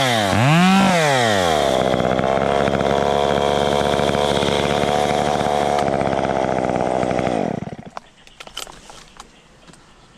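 Two-stroke chainsaw revving up and down twice, then held at high revs for about six seconds before dropping off about seven and a half seconds in. After that come a few faint scattered clicks.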